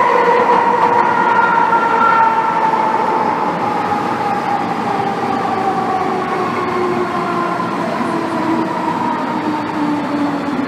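Inside an MTR M-Train subway car, the traction motors and gearing whine over the running rumble of the wheels. Several whining tones slide slowly down in pitch as the train slows, typical of braking on this train.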